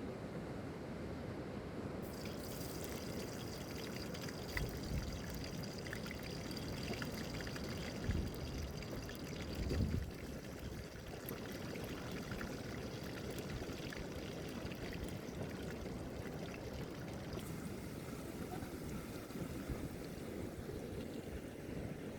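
Fish frying in hot oil, sizzling and crackling. The sizzle starts suddenly about two seconds in and eases off after about fifteen seconds, over a steady wind-and-surf hiss.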